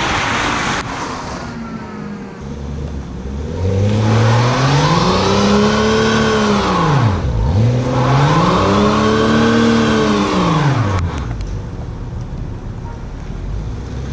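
BMW 335i's turbocharged straight-six revving hard while a rear tyre spins on wet asphalt in a one-wheel burnout. The revs climb and fall twice, then drop back about 11 seconds in. The car has been made rear-wheel drive, and its open differential spins only one wheel.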